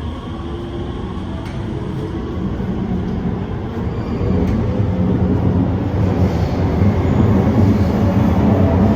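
Alstom (Bombardier) Movia R151 metro train running, its rumble and low hum growing steadily louder.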